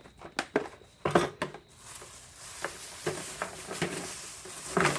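Small metal fittings clinking and knocking as they are handled, then a steady rustling hiss, likely packaging being handled.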